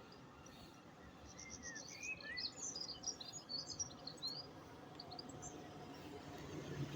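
Small birds chirping in a rapid run of short, high twittering notes for a few seconds over faint outdoor background noise, with a low hum building near the end.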